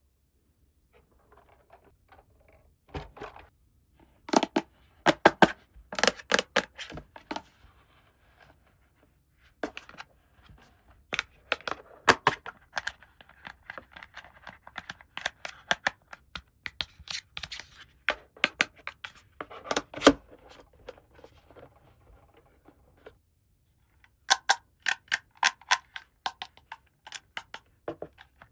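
Small plastic toy pieces being handled, clicking and tapping in irregular clusters, with softer rustling in between.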